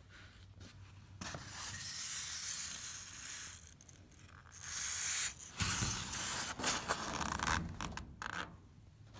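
Foam board adhesive being squeezed from a caulking gun, the gun's trigger and ratchet clicking among rubbing and scraping noise. The adhesive is stiff from the cold. The louder stretch comes in the second half.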